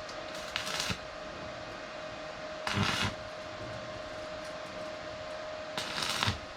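Three short bursts of electric arc-welding crackle, each about half a second long and a couple of seconds apart: spot tack welds on steel, over a steady machine hum.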